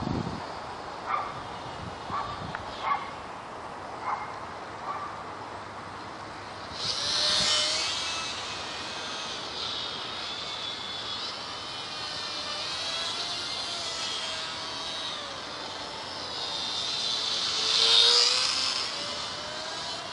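WLToys Cessna-182 (F949) RC plane flying overhead: the high whine of its small electric motor and propeller, wavering in pitch. It swells loud as the plane passes close about seven seconds in, and again near the end.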